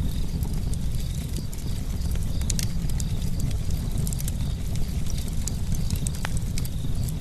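Campfire burning with a steady low rumble of flames and frequent sharp crackles and pops from the burning wood, several in quick clusters.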